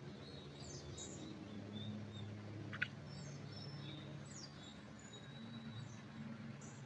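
Small birds calling: scattered short high chirps and quick down-slurred notes, over a low steady background hum. A single sharp click sounds a little under three seconds in.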